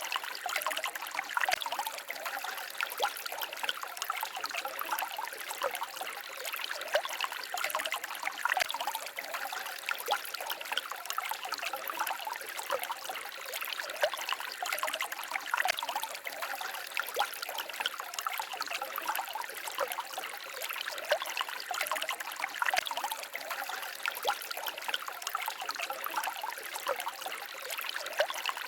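Small forest stream trickling and babbling over stones: a steady wash of many small splashes and gurgles.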